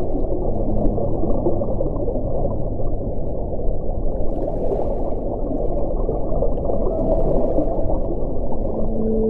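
Wind blowing steadily in a low, dark rush, with faint moaning tones at a few pitches. Twice a brief thin hiss rises above it, about halfway through and again near the end.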